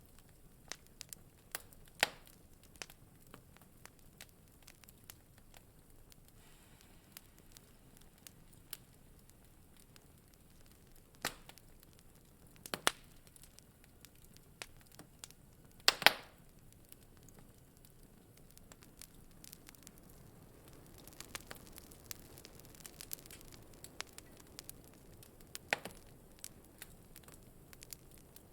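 Wood fire crackling in a fireplace: irregular small crackles over a faint hiss, broken by a few sharp, louder pops, the loudest about 16 seconds in.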